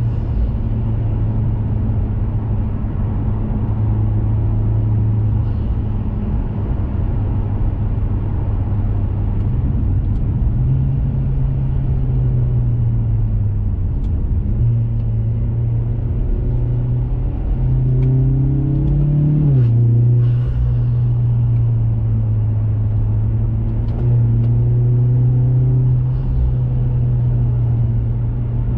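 2021 Mazda 3 Turbo's 2.5-litre turbocharged four-cylinder droning through a CorkSport cat-back exhaust while driving, over steady road noise. The engine note rises and falls with throttle, climbing for a couple of seconds about two-thirds of the way through, then dropping sharply at an upshift.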